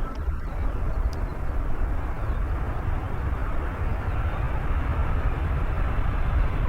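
Airbus A330 airliner coming in to land, its jet engines a steady deep rumble, with a faint engine whine growing near the end.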